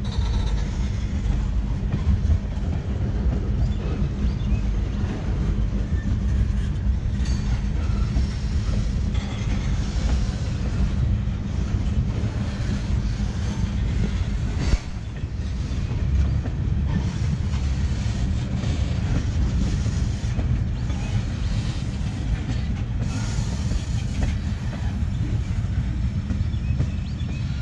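Freight train of tank cars rolling past: a steady low rumble of steel wheels on the rails, with clicks as the trucks cross rail joints. There is one sharp knock about halfway through.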